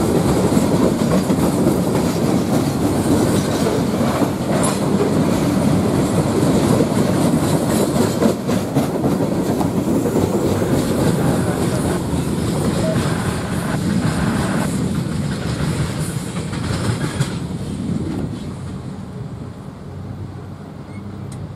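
Loaded coke hopper cars of a freight train rolling past close by, steel wheels on the rails with occasional clanks. About 17 seconds in the noise drops off and the train fades as it rolls away.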